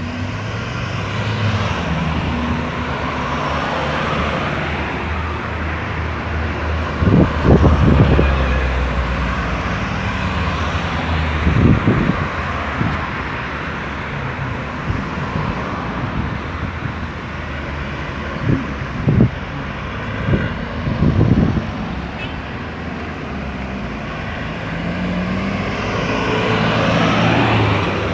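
Road traffic moving around a busy roundabout: cars and trucks passing with a continuous hum of engines and tyres, broken by several brief low thumps.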